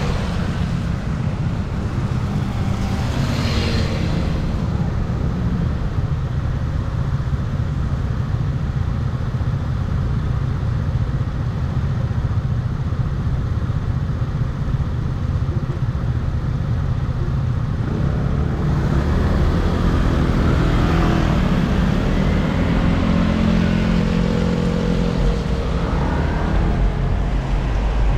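Wind rumbling on the microphone during a ride, with vehicle engine and traffic sound; pitched engine tones that rise and fall become stronger about two-thirds of the way through.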